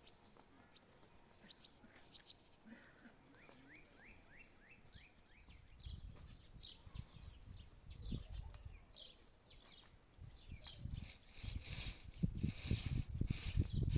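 A bird chirping in a quick series of short, falling notes. From about halfway on come low knocks and rumbles, which grow louder near the end into rustling noise.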